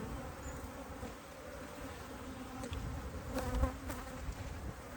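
A colony of honeybees buzzing on an open top bar hive comb, a steady hum of calm bees.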